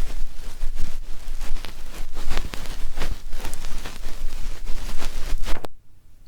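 Ear pick scratching and rubbing on a microphone for ASMR ear cleaning: dense crackly scraping with a low rumble, stopping abruptly near the end.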